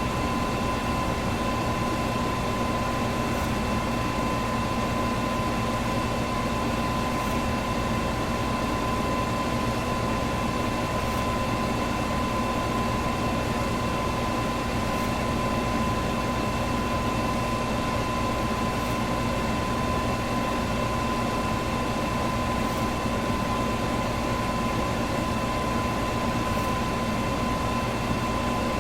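Electric fan running at one steady speed: an even rush of air with a steady hum and a higher whine, and a faint tick about every four seconds.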